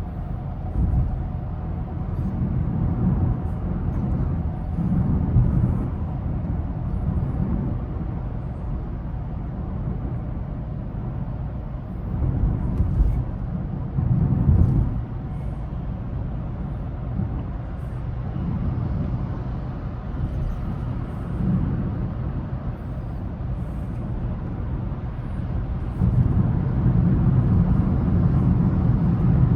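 Car driving through city streets: a steady low rumble of engine and tyre noise that swells louder a few times.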